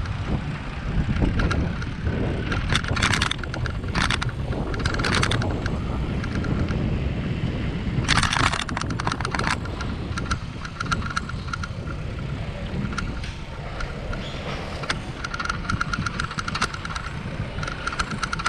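Riding a bicycle with a GoPro: steady wind rumble on the microphone, with the bike rattling and clicking over bumps in short bursts, the loudest about eight seconds in.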